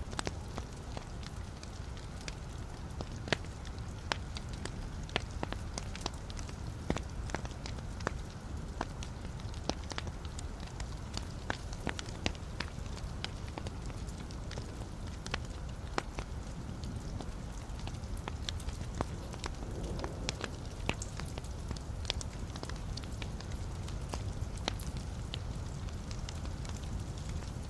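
Log fire in a fireplace, crackling: many sharp, irregular pops and snaps over a steady low rumble of the flames.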